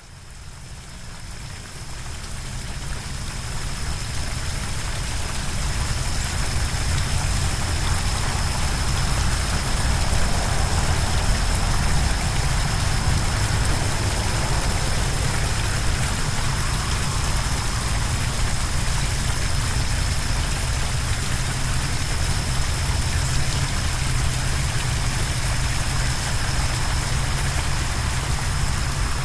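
Waterfall: steady rushing water with a deep rumble underneath, fading in over the first several seconds, and a thin steady high tone above it.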